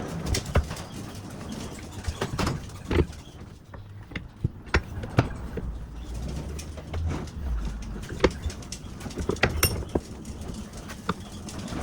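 Irregular clicks and knocks of hand work on metal drive-shaft parts, with a low rumble in the middle.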